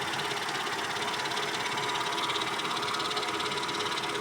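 Mercedes ML 320 engine idling steadily after the revs are dropped, with a rustling noise from the engine that is not a knock; it appears at low revs and is gone when the engine is revved, and its cause is unknown to the owner.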